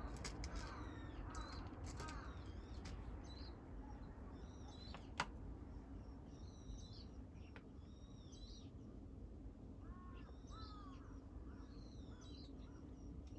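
Birds calling outdoors: short high calls repeated every second or so throughout, with a lower call around ten seconds in. A single sharp click about five seconds in is the loudest moment.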